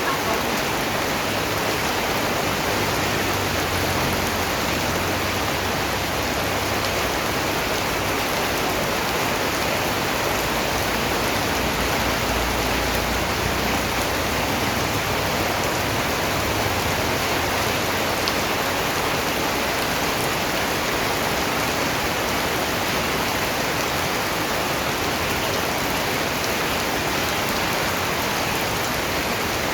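Steady rain falling, an even, unbroken hiss of raindrops on a surface.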